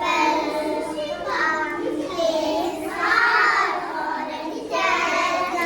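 Several young children's voices at once, singing and calling out together.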